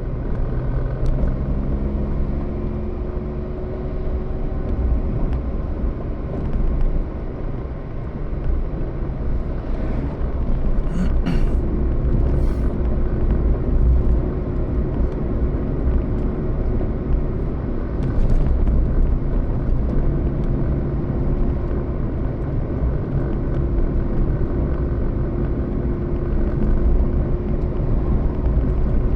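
Steady low rumble of a moving road vehicle with a faint engine hum, and a few brief clicks or rattles about eleven and eighteen seconds in.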